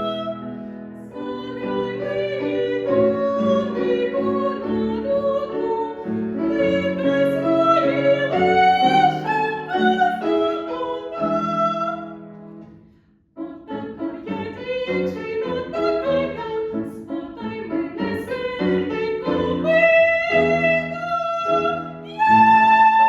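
Classical singing of an art song with piano accompaniment: long held, wavering notes over piano chords. About halfway through the music fades out briefly, then resumes.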